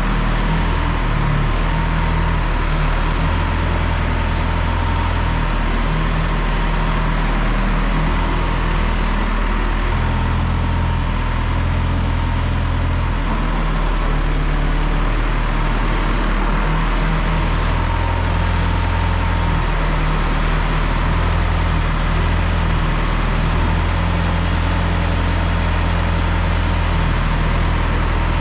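A John Deere 2030 tractor engine running steadily for the whole stretch, its low note shifting in strength every few seconds.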